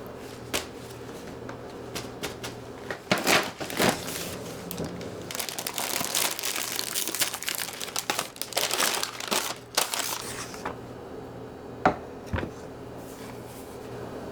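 Crinkling and rustling of something being handled, in dense bursts through the middle, then a couple of sharp clicks.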